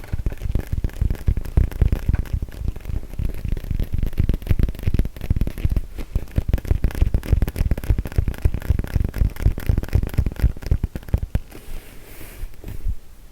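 Fingers tapping rapidly and densely on a yoga mat, a dull low patter of many strokes a second that stops about eleven seconds in, followed by a brief soft rustle.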